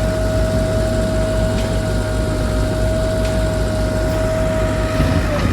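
Heavy diesel machinery running: a low, steady engine throb under a constant high whine that dips slightly in pitch near the end.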